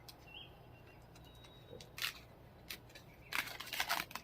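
Sharp clicks from something being worked loose by hand: one loud click about two seconds in, then a quick run of clicks and scraping near the end. A bird chirps faintly about half a second in.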